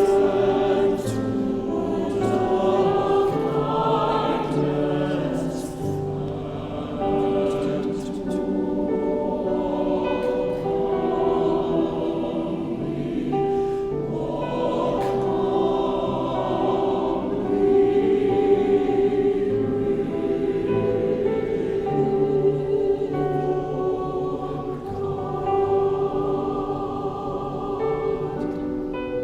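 Church choir singing, in sustained phrases.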